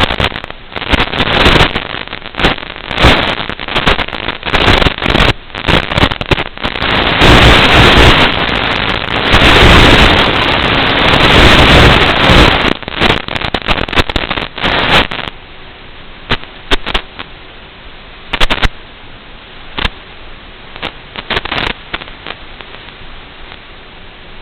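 Wind buffeting the microphone in loud, crackling gusts. After about fifteen seconds it drops to a low hiss with scattered pops.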